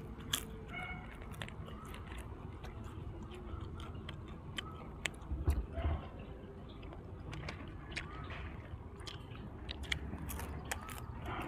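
A person chewing and biting fried dried squid close to the microphone: many small sharp clicks and crunches of mouth noise, loudest about halfway through.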